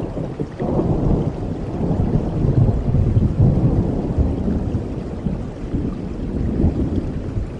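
A long rumble of thunder over steady rain, building from about half a second in, loudest midway, then slowly rolling away.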